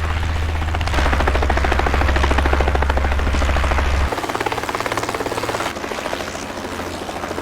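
Helicopter rotors beating in a fast, even chop over a low engine drone. The sound changes abruptly about four seconds in and again near six seconds, as if from one shot to another, and grows quieter.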